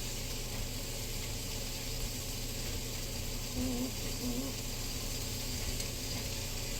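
Steady sizzle of food frying in a hot pan.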